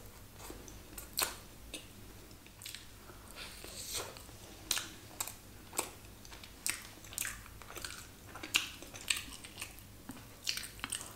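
A person chewing a mouthful of cheese pizza close to the microphone, with irregular crisp crunches and mouth clicks, about one or two a second.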